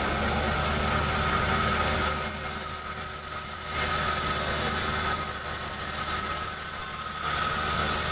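Chainsaw engine running steadily while ripping a jengkol log lengthwise. Twice it drops for a second or two and then comes back, as the saw is pulled through the cut.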